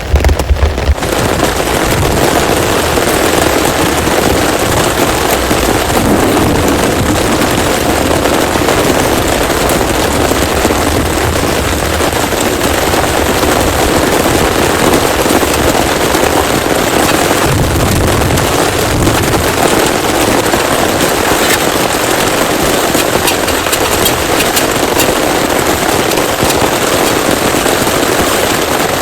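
Heavy rain pouring steadily, a dense crackling patter of many drops. A low thunder rumble dies away about a second in.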